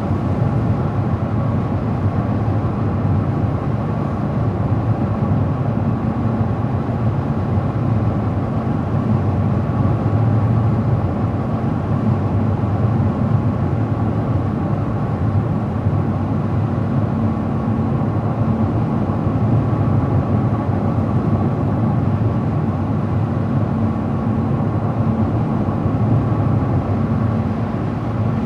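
Steady road noise of a car driving at an even speed: a low drone of tyres and engine that holds level with no changes.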